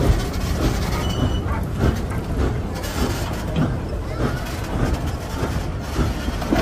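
Vintage railway passenger coaches rolling past, their wheels rumbling on the track with a steady run of irregular clicks and knocks, and a brief high squeal about a second and a half in.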